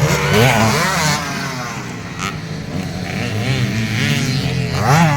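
Enduro dirt bikes racing, their engines revving with the pitch rising and falling through gear changes and throttle blips. The revving is loudest just after the start and again near the end.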